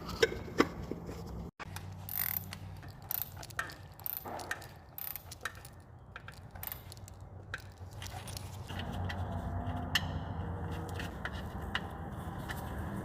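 Metal tools and parts clinking, clicking and scraping as they are handled during an oil change, over a steady low hum.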